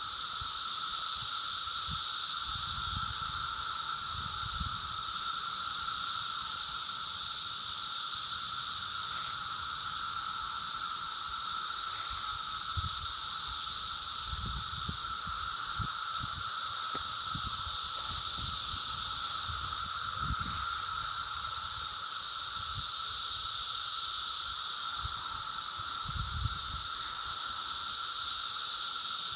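Chorus of 17-year periodical cicadas: a continuous high, shrill drone with a steadier, lower hum beneath it, swelling and easing slowly without a break.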